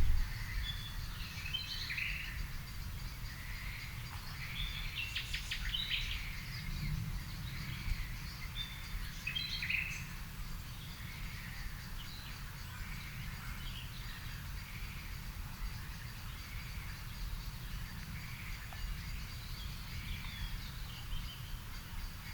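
Garden birds calling in the evening: scattered chirps and short song phrases, busier in the first ten seconds, with a quick rattling run of notes about five seconds in, over a steady low outdoor rumble. A brief low thump sounds at the very start.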